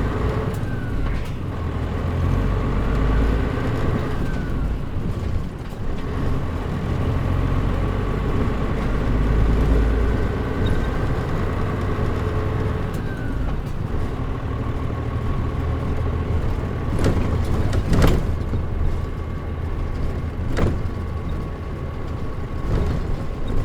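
Mitsubishi Fuso KL-MP37JM non-step city bus under way, with its engine and drivetrain running steadily and a steady whine over the rumble. A few sharp knocks come near the end.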